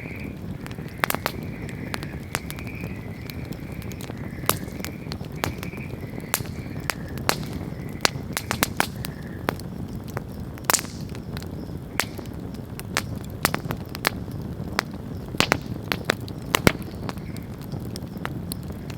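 Wood bonfire burning: a steady low rumble of flames with frequent, irregular sharp crackles and pops of the wood, one louder pop with a brief hiss about eleven seconds in.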